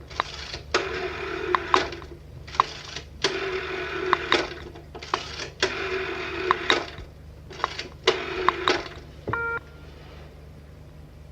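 Telephone bell ringing in rattling bursts of about two seconds with short breaks between them. The ringing stops about nine seconds in, followed by a click and a brief beep.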